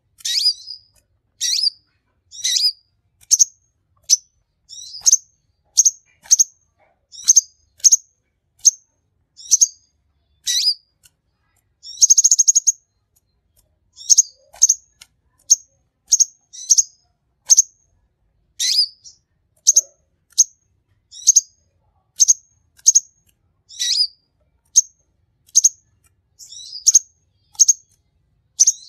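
A konin (sunbird) singing: a long series of short, sharp, high chirps about one every second or less, broken by one longer buzzy trill about twelve seconds in.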